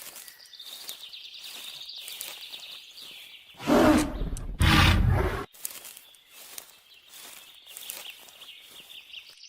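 Two loud, rough roars, about 4 and 5 seconds in, each lasting about a second, over faint clicking and a thin steady high hiss.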